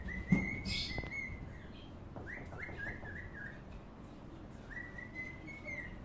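A bird whistling in clear, nearly level notes: a long held whistle at the start, a quick run of short stepped notes a couple of seconds in, and another long held whistle near the end. A sharp knock just after the start is the loudest sound.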